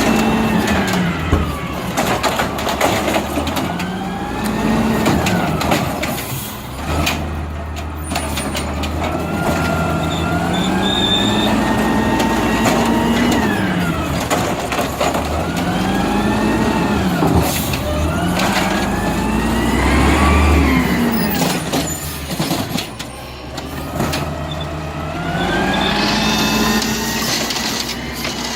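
Garbage truck engine revving up and down over and over, each rev a rising then falling pitch lasting a few seconds: the automatic rev that drives the hydraulics while the truck picks up and dumps cans. Scattered clanks and knocks of cans and the lift arm come through the engine sound.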